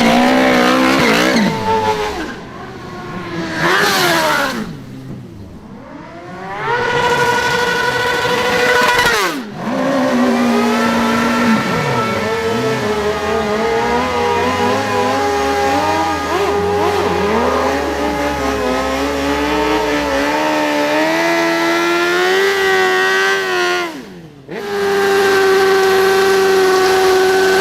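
Superbike engine revving hard through rolling burnouts: the pitch climbs and falls, then holds steady at high revs for several seconds at a time. The sound breaks off abruptly twice, about nine seconds in and near the end, where one burnout run gives way to the next.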